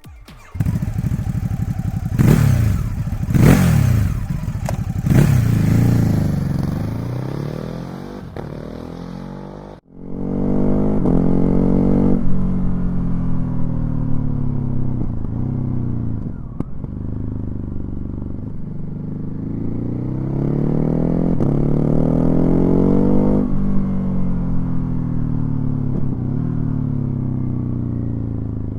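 2020 Ducati Hypermotard 950's L-twin engine on its standard exhaust, picked up by a microphone mounted on the bike. It revs sharply three times in the first few seconds. After a short break about ten seconds in, it runs on, rising and falling in pitch again and again.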